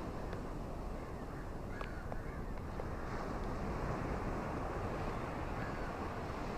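Ocean surf washing steadily onto a shore, a continuous low rushing noise without distinct breaks. A few faint high chirps sound about two seconds in.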